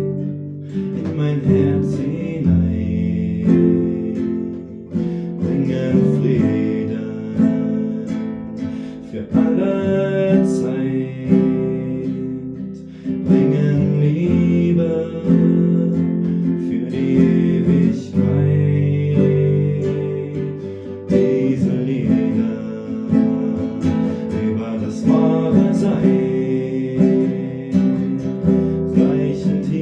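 Acoustic guitar music: chords strummed and notes plucked in a steady song accompaniment.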